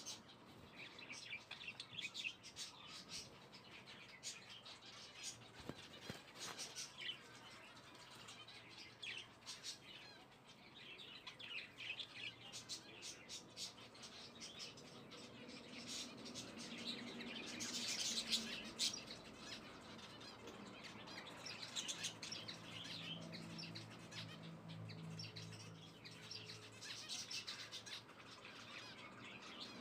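Small birds chirping repeatedly in the background, with scattered faint clicks.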